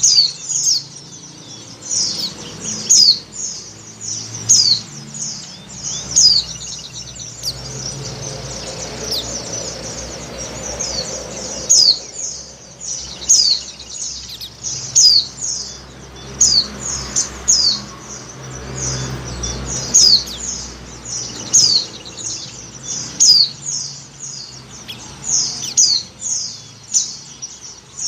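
Female white-eye (pleci) giving short, high chirps that fall in pitch, repeated every half second to a second: the call of a female in breeding condition to a male, used to lure white-eyes. A low rumble sits underneath, strongest in the middle.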